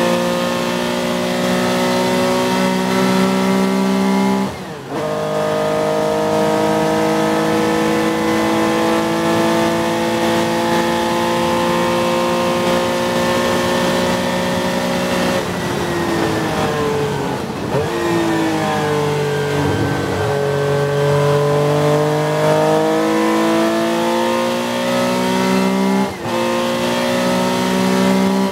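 1969 Porsche 911T race car's 2.5-litre air-cooled flat-six, heard from inside the cabin, pulling hard through the gears with an upshift about five seconds in. About halfway it lifts and drops down through the gears for a corner, then accelerates again with another upshift near the end.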